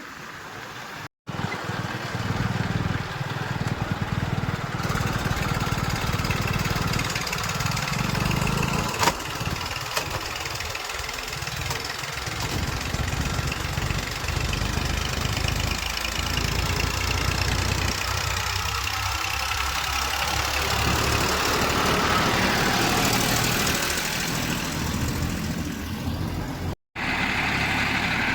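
Diesel engine of heavy farm or earthmoving machinery running, its pitch rising and falling in places, with a sharp click about nine seconds in. The sound drops out briefly twice, about a second in and near the end.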